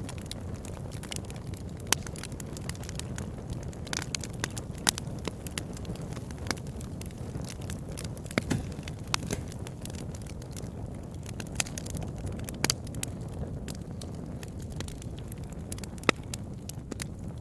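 Campfire burning with irregular sharp crackles and pops over a steady low rumble; the loudest pops come about two seconds in, near the middle and near the end.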